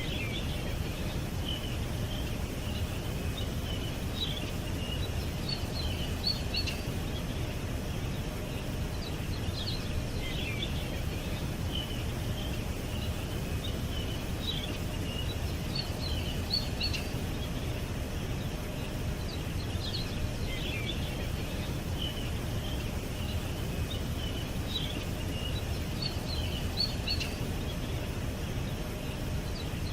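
Songbirds chirping, short high notes coming in clusters every few seconds, over a steady low rumble of background noise.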